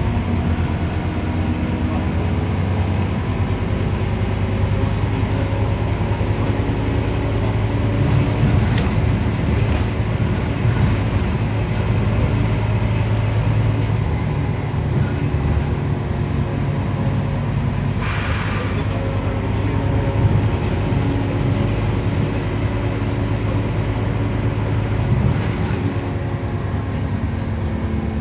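Scania CN270UB city bus engine running as the bus drives between stops, heard from inside the bus, its pitch rising and falling a little with the throttle. About two-thirds of the way through there is a short hiss.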